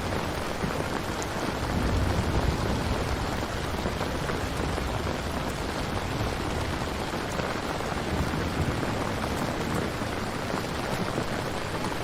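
Steady rain falling, with a low rumble of thunder swelling about two seconds in.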